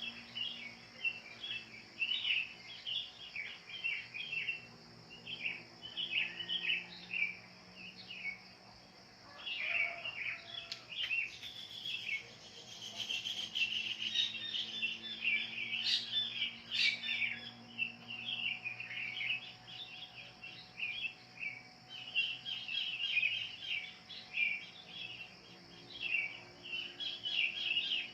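Wild birds chirping and calling without pause, many short overlapping notes, over a steady high hiss.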